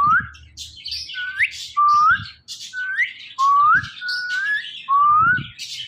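Indian ringneck parakeet whistling a string of short notes that each slide upward in pitch, several times in a row, with scratchy high chatter between them.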